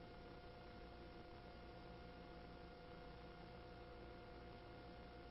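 Near silence: a faint steady hiss with a thin steady hum.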